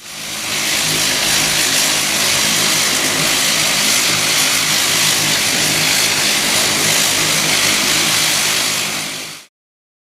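Turboprop airliner's engines and propellers running: a steady, loud hiss with a low propeller hum beneath it. It swells in at the start and cuts off abruptly near the end.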